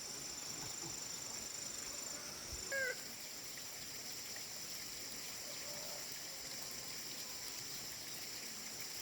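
A steady high-pitched drone throughout, with one short animal call about three seconds in.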